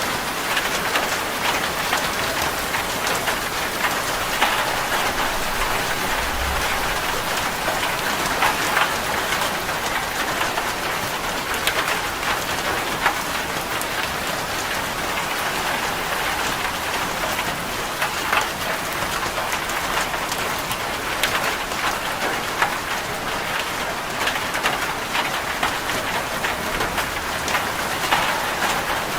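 Steady rain falling on a corrugated zinc roof: an even hiss with many scattered sharp ticks of single drops striking the metal.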